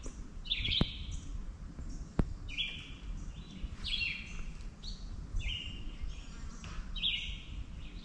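Bird song: short phrases of quick, high, slurred notes every second or two, over a low rumble of wind on the microphone. A few sharp clicks in the first couple of seconds.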